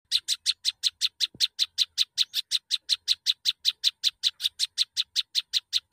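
Prenjak songbird calling a fast, even series of sharp chirps, about five or six a second.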